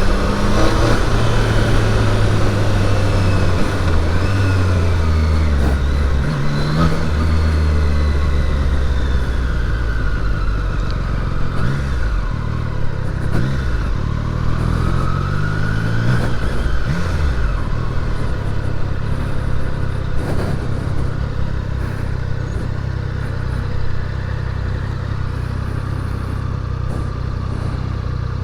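Triumph Daytona 660's inline three-cylinder engine running under a rider. The revs change through the first third, with a few short rises in pitch in the middle, then it settles into a steady low-revving run for the second half.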